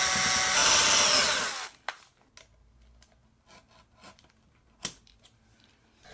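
An electric power tool runs loudly and stops about a second and a half in. Scattered light clicks and knocks of workpieces being handled follow.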